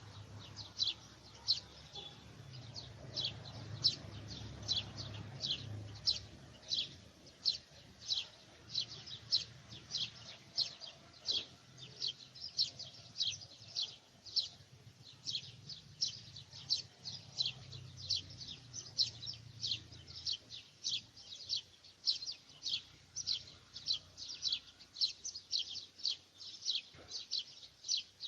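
A bird calling with a steady series of short, high-pitched chirps, about two a second, over a faint low rumble.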